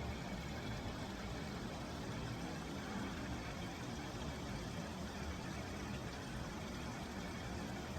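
Steady low rumble with a faint hiss over it, even throughout, with no distinct events.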